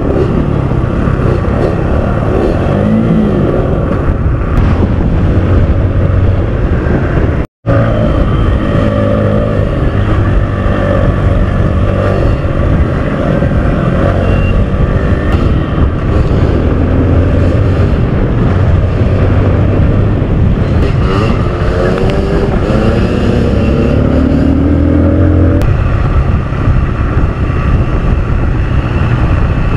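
Kawasaki KLX150L dirt bike's single-cylinder four-stroke engine running under way, its pitch rising and falling as it revs. The sound cuts out briefly once, about seven seconds in.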